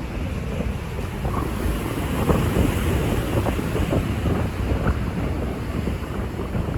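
Wind buffeting the microphone outdoors, a steady gusty rumble with irregular flutter.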